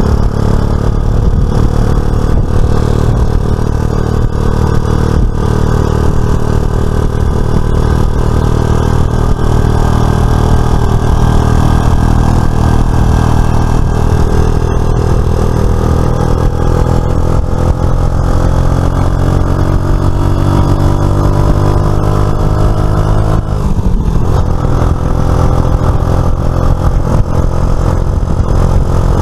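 Suzuki FL125 Address scooter's single-cylinder engine running under way, its pitch climbing slowly as it gathers speed, then dropping sharply about three-quarters of the way through and climbing again.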